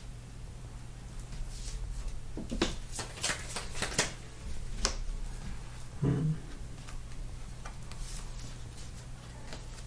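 Playing cards being handled and set down on a table, a handful of short taps and clicks in the middle, over a steady electrical hum.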